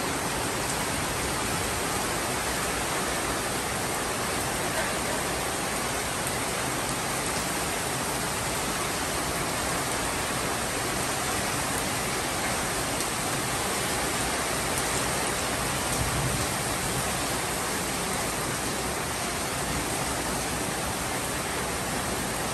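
Heavy tropical downpour: loud rain falling steadily, with no thunder.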